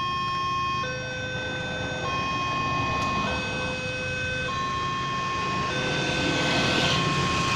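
Railway level-crossing warning alarm sounding two tones that alternate about every second, the signal that a train is approaching and the barriers are down. Beneath it a low rumble, with a rushing noise that grows louder near the end.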